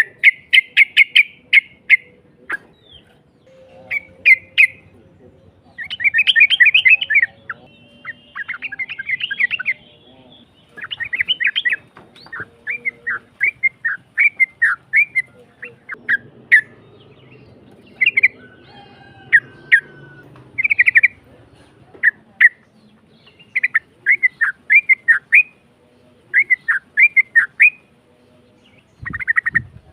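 Yellow-vented bulbul (trucukan) singing: rough, bubbly chattering phrases repeated over and over with short pauses between them.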